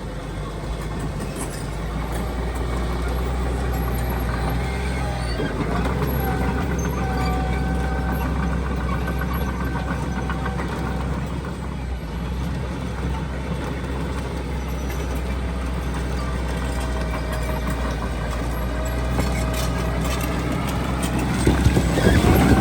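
Diesel engines of heavy earthmoving machinery running steadily under load, with a thin whine that comes and goes. The sound grows louder and rougher near the end.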